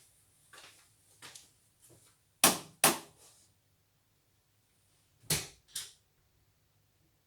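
Sharp knocks in two pairs, each pair a little under half a second apart, over a faint steady low hum.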